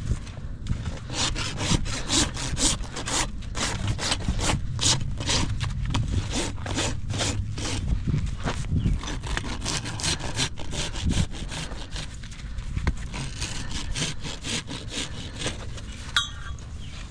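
Farrier's rasp filing a horse's hoof during a trim: a steady run of rough back-and-forth rasping strokes, about two to three a second.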